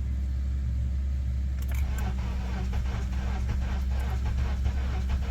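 2004 Honda Accord engine cranking on its starter with the accelerator floored, turning over at a steady rhythm from about two seconds in over a steady low hum, without catching. The cranks are good, so the battery is fine, and the owner puts the no-start down to failed ignition coils.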